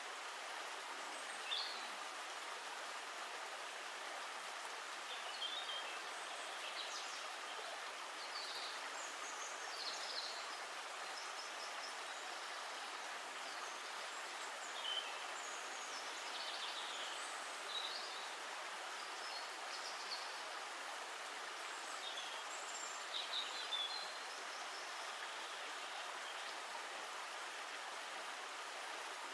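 Steady rushing of running water, an even hiss with no rhythm. Short high bird chirps come and go over it every few seconds.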